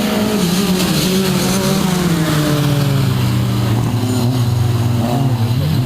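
Rally car engine running hard, its pitch sliding steadily down over the first few seconds, then holding, with short revs rising and falling near the end.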